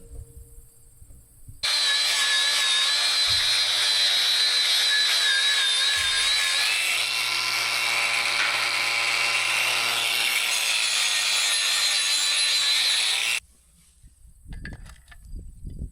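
An electric power tool, such as a grinder or saw, running under load on metal gate work, with a wavering whine. It starts sharply after about two seconds, runs for about twelve seconds and cuts off suddenly.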